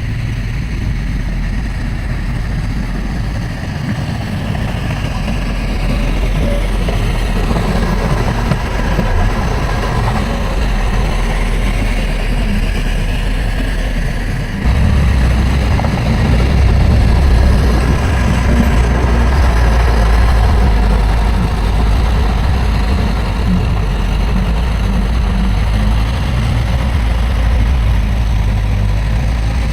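Heavy diesel earthmoving machinery running steadily, with a sudden step up in loudness and low rumble about halfway through as the engine takes more load or comes closer.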